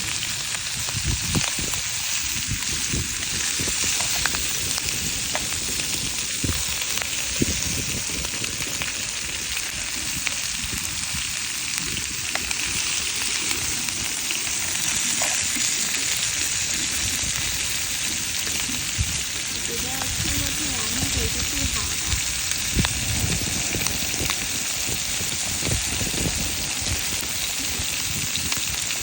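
Shrimp and sausage frying over a campfire: a steady sizzling hiss with scattered small pops and crackles.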